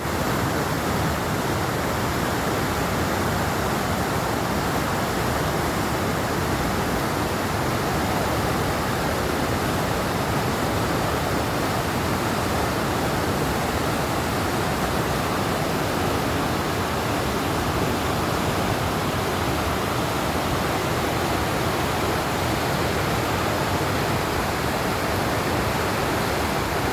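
Mountain river rushing over rocks: a steady, unbroken roar of water.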